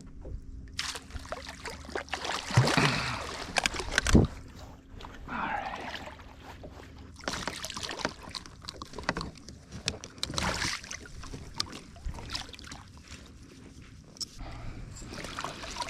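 Water splashing and sloshing with irregular knocks and rustles on a kayak as a just-caught lake trout is brought aboard and handled.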